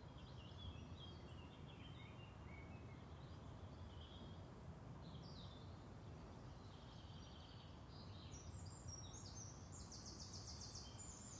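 Near silence with faint outdoor birdsong: scattered small-bird chirps and a brief repeated-note trill near the end, over a low steady hiss.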